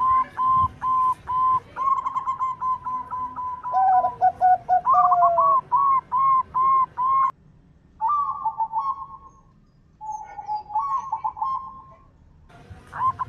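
Zebra doves (perkutut) cooing in rapid runs of short, repeated notes, with two birds at different pitches overlapping in the middle. The song breaks off abruptly twice.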